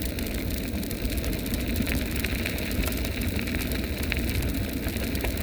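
Electric bike's tyres rolling over a dirt road: a steady rushing noise with many small ticks and rattles, and wind rumbling on the microphone.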